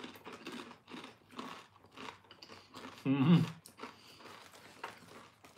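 Crisp, crunchy chewing of a deep-fried chicken skin snack, with sharp crunches about twice a second and a short hummed 'mm' a little past three seconds in.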